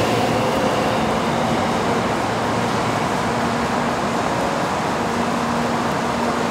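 Shinkansen 923-series Doctor Yellow inspection train rushing past and pulling away, a steady rushing noise that eases slightly as it recedes.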